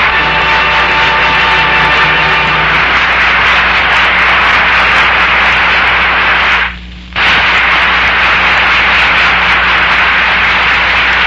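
Loud, steady hiss of an old radio transcription recording, with faint music tones fading under it in the first few seconds. The noise drops out briefly about seven seconds in.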